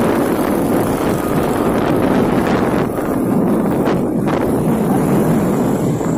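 Heavy trucks running in a convoy, a steady dense rumble of engines and road noise, with wind buffeting the microphone.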